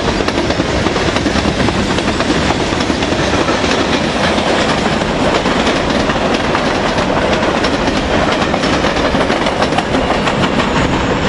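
Tank cars and covered hopper cars of a CN freight train rolling past close by: a loud, steady rumble of steel wheels on rail with constant rapid clicking and clattering over the track.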